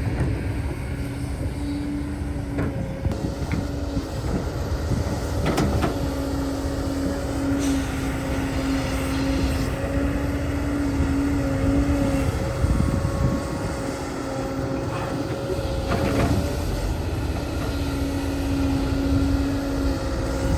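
Earth-moving machinery working: a steady engine hum over a low rumble, with a few sharp knocks.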